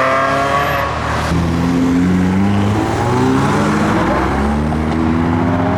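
Car engine accelerating away hard through the gears: its pitch climbs, drops at each shift, and climbs again several times. In the first second another engine's higher note falls away.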